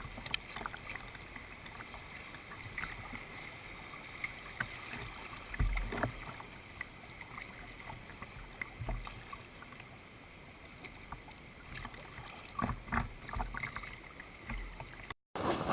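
Kayak paddling: paddle blades dipping and dripping water, with a few scattered low thumps. A short dropout comes just before the end.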